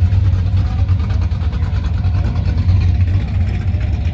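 Classic car's engine idling with a steady, deep low rumble.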